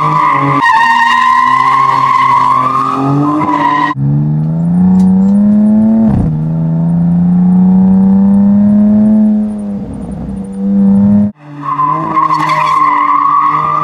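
A car's tyres squealing hard over a running engine, then the engine accelerating, its note dropping once at an upshift about six seconds in and climbing again. The tyre squeal returns near the end.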